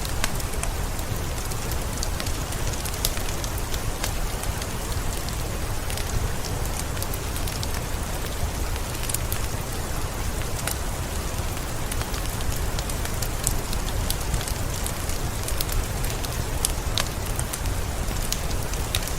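Steady rain mixed with a crackling fireplace: a continuous hiss with a low rumble underneath, dotted all through with many small sharp crackles.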